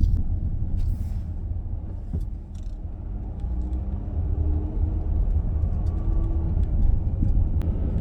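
Steady low rumble of a vehicle being driven, heard from inside the cabin: engine and road noise, with a few faint clicks.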